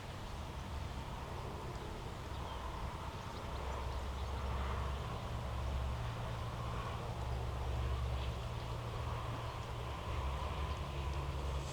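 Outdoor ambience dominated by a steady low rumble that grows somewhat louder about four seconds in.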